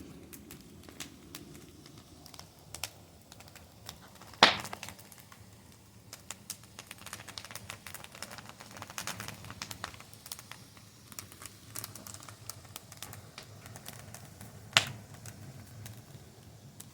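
Wood fire crackling: irregular small snaps and ticks, with two loud pops about four and a half seconds in and near the end, over a faint low rumble of burning.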